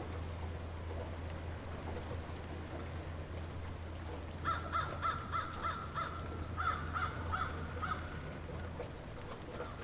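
Light rain falling steadily over a low steady hum, with a bird calling a quick run of about ten short repeated notes, about three a second, from about halfway in for some three seconds.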